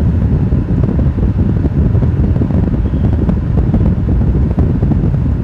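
Steady low rumble inside a moving car: engine and road noise heard from the cabin.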